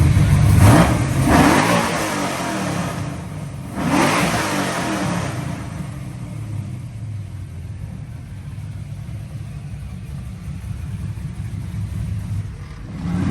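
Camaro's engine running and being revved: a few sharp blips in the first few seconds, then dropping back to a lower idle before coming up loud again near the end.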